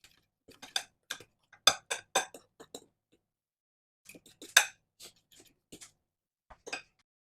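A mixing utensil clicking against a bowl in quick, irregular strikes as a thick, loose dough is stirred vigorously. The clicks pause for about a second around the middle.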